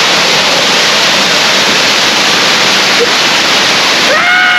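Loud, steady rushing of a waterfall, an even wash of falling water with no breaks. A voice starts just before the end.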